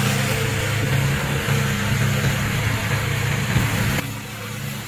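Remote-control brush mower's engine running steadily, with a dense noisy hiss over it; the sound drops a little about four seconds in.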